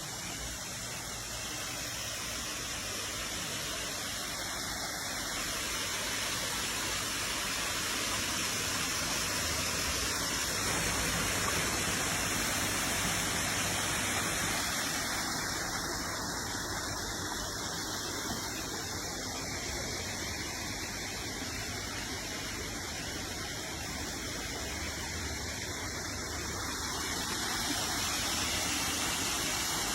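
Waterfall rushing steadily: a continuous, even sound of falling water.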